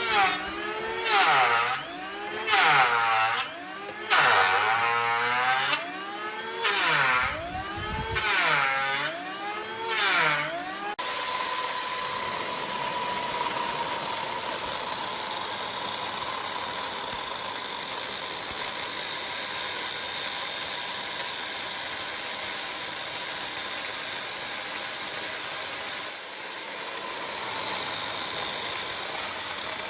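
A motor revving up and down about every second and a half, then running steadily from about eleven seconds in.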